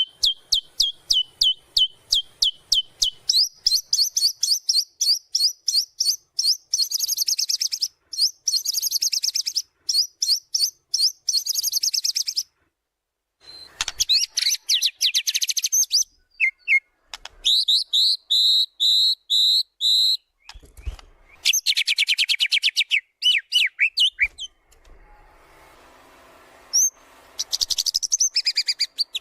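White-rumped shama (murai batu) singing a long, varied song of rapid high chirp trains, trills and slurred whistled notes, with a brief pause partway through. It is in full song, running through its repertoire of learned phrases ("bongkar isian").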